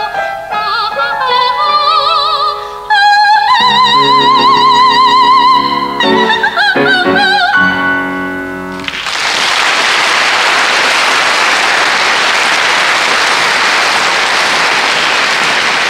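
Soprano singing the closing phrases of a Xinjiang folk song with wide vibrato over an instrumental accompaniment, holding a long high note from about three to six seconds in. The song ends about nine seconds in and an audience applauds steadily for the rest.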